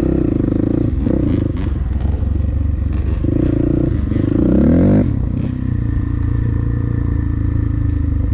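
Dirt bike engine revving unevenly, climbing in pitch to its loudest about five seconds in, then dropping back to a steady idle.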